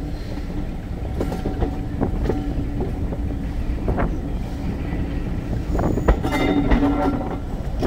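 2-EPB (Class 416) railway carriage rolling along the track: a steady rumble of wheels on rail with scattered clicks and knocks. A brief higher-pitched squeal rises about six seconds in.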